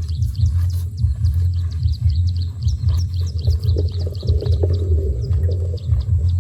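Small birds chirping rapidly with many short high calls, over a loud, unsteady low rumble.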